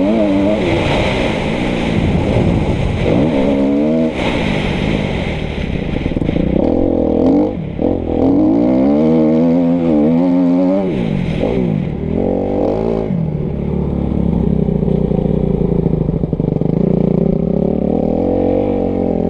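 2013 Kawasaki KX250F's single-cylinder four-stroke engine being ridden hard, its pitch climbing and falling again and again with throttle and gear changes. The engine dips briefly about a third of the way in.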